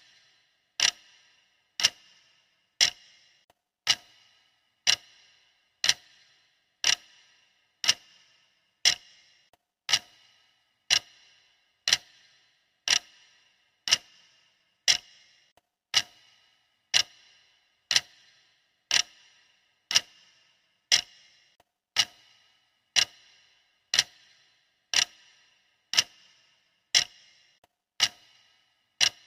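Clock ticking, one sharp tick about every second at an even, steady pace.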